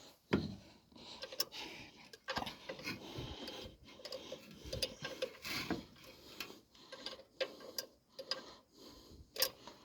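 Irregular light clicks, taps and small metallic rattles of hands fiddling with small parts, fitting a spring to a carburettor choke linkage.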